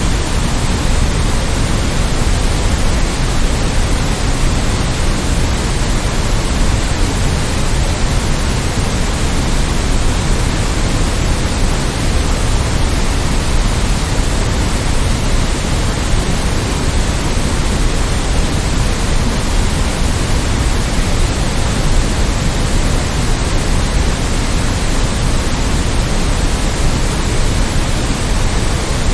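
Steady, unchanging white-noise sleep track: an even hiss with no tones or events, fuller in the low end than pure white noise.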